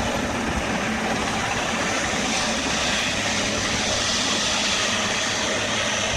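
Steady, loud aircraft engine noise, holding level without rising or falling.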